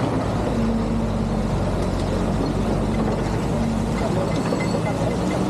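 Excavator's diesel engine running steadily, with a hum that comes and goes over the drone.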